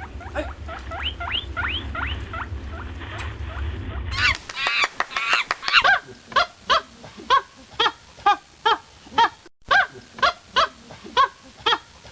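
Animal calls in two clips: rising pitched calls for about four seconds, then after a cut a flurry of calls settling into a regular series of short honk-like calls, about two and a half a second.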